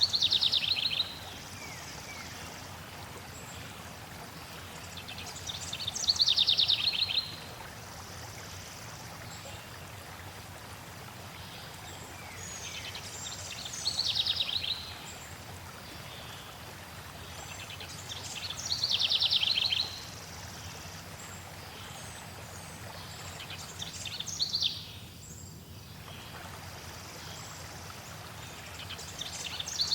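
Steady flowing-water noise of a stream, with a small songbird singing a short, fast trilling phrase of about a second and a half roughly every five to six seconds, six times in all. The water sound briefly thins a little past the middle.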